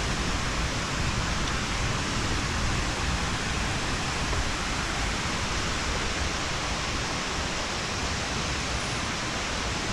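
Steady rushing outdoor noise, even and unbroken, with a low rumble under a hiss.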